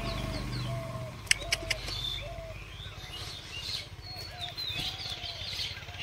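Birdsong: one bird repeats a short mellow note about twice a second while other birds chirp and twitter higher over it. Three sharp clicks about a second and a half in are the loudest sounds.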